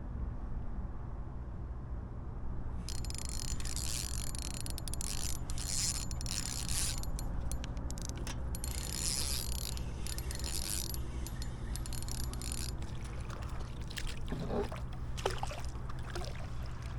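Spinning fishing reel being cranked, a fast mechanical whirring that runs for several seconds and then stops about eleven seconds in, over a steady low hum and light water sounds from a kayak.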